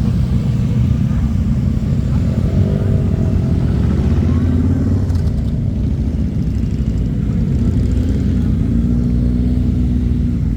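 Motorcycle engines running, loud and steady, with the pitch sliding up and down around the middle as bikes rev or move off.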